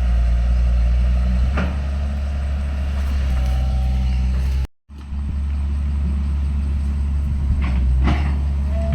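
Heavy diesel engine of earthmoving machinery running steadily, with a couple of short knocks. The sound cuts out briefly about halfway through.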